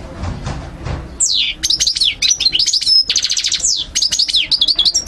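European goldfinch singing: a rapid, fluent twitter of quick downward-sweeping whistles and buzzy trills, starting about a second in after a low muffled sound.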